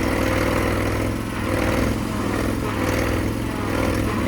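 Engines straining under load as a mower stuck in mud is reversed while the tow vehicle pulls, rising and falling in several surges.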